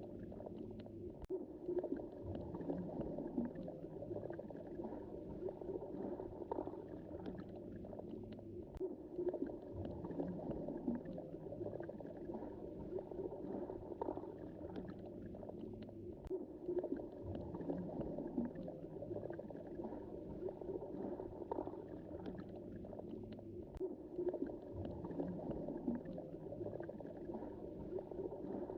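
Sea water heard underwater: a continuous muffled rushing and surging of water movement, with scattered faint clicks.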